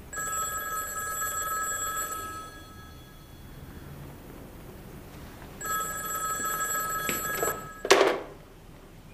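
Desk telephone's bell ringing twice, each ring a little over two seconds with a pause of about three seconds between. The second ring stops just before 8 seconds in, and the receiver is lifted with a short, loud clatter.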